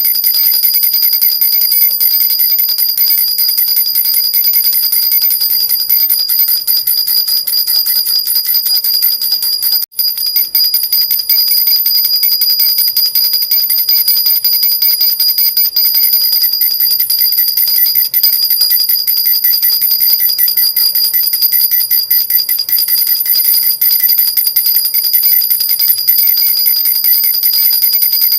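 Silver jhunjhuna, a metal baby rattle with small bells, shaken steadily: a continuous jingling with high ringing tones, broken by a very short gap about ten seconds in.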